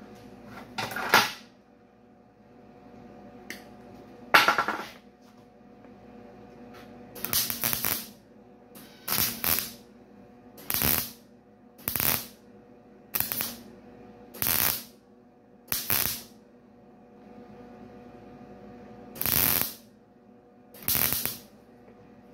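Short bursts of stitch welding on thin stamped steel, about eleven of them, each under a second long. This is a steady on-off pattern of welding in short stitches to keep from burning through the thin metal. A steady faint hum runs between the bursts.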